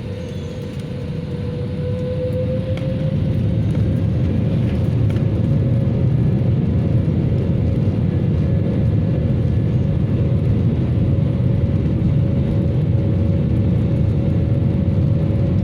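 Jet airliner engines running up, with a steady whine that rises slightly in pitch and a deep rumble growing louder over the first few seconds, then holding steady and loud.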